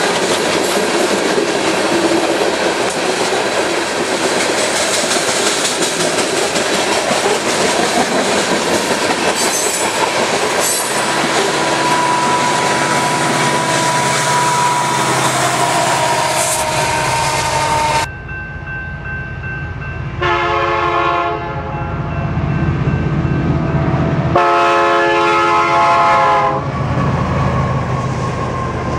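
A loaded freight coal train rolls past at speed, its hopper wheels clattering over the rail joints with a steady rush of noise, and a locomotive goes by partway through. About 18 s in the sound changes abruptly to the rumble of diesel locomotives, and the air horn sounds twice, the second blast longer than the first.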